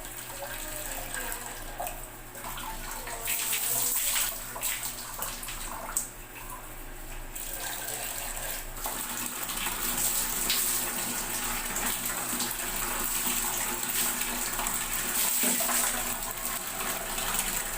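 Water pouring and splashing as a person bathes, a steady rush that grows gradually louder.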